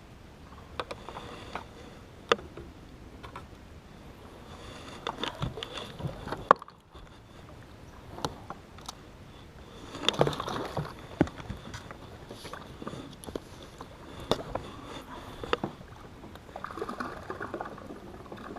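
Scattered knocks, clicks and rustling on a small fishing boat, with some water sounds, as gear is handled and the boat moves among flooded timber.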